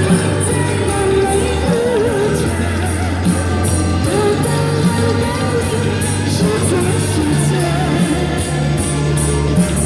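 Pop song performance: a singer's voice with vibrato over a backing track with a steady bass line and beat.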